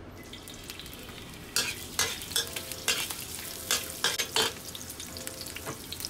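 Shredded ginger sizzling in hot oil in a wok, stirred with a metal spatula. From about a second and a half in, the spatula scrapes and clinks against the wok several times.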